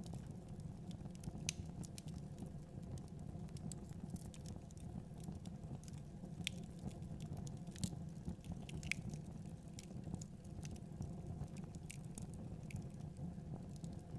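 Wood fire crackling, with irregular sharp pops over a steady low rumble of the burning fire.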